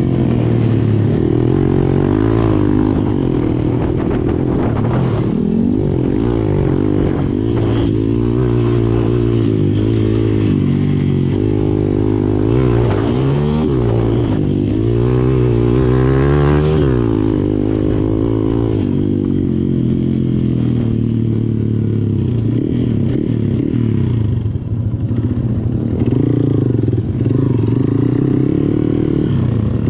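Motocross dirt bike engine running hard, its pitch rising and falling as the throttle is opened and closed and gears change, with quick swoops of revving several times.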